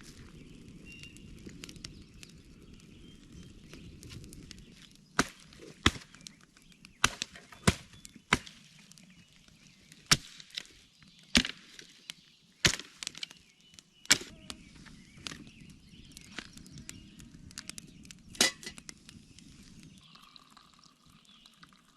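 Firewood being split into kindling with sharp, woody chopping strikes: about a dozen irregular knocks, roughly one every second or so, starting about five seconds in and stopping a few seconds before the end.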